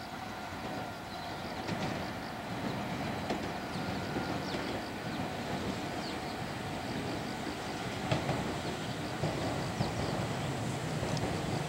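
Meitetsu Panorama Super limited express, coupled with an 1800-series unit, approaching to pass through the station: rail noise grows steadily louder as it nears, with sharp clicks of wheels over rail joints about eight seconds in and near the end.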